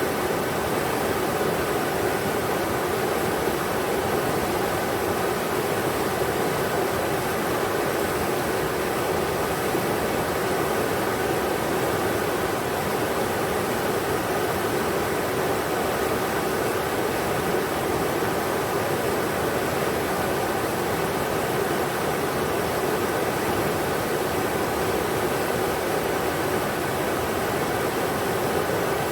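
River water rushing steadily over rocks, a constant even roar of flowing water with no breaks.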